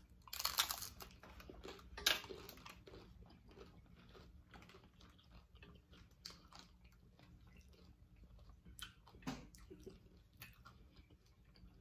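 Crunching bites into a hard taco shell, loudest in the first two seconds, followed by quieter chewing with small crackles of the shell.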